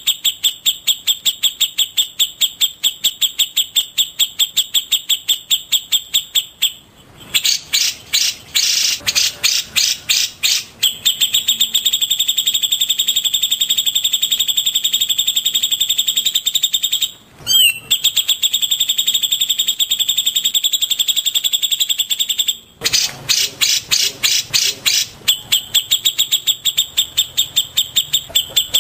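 Recorded songbird calls played as a masteran training track: one high chirping note repeated steadily at about five a second. Twice it breaks into a run of quicker, varied notes, and once, a little past the middle, a short rising sweep.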